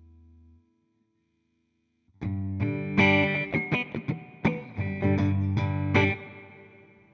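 Fender Jazzmaster electric guitar with humbuckers played clean through a simulated Fender '65 Twin Reverb amp. A faint held note fades out, then after a short pause comes a run of struck chords about two seconds in, ending on a chord that rings and fades away.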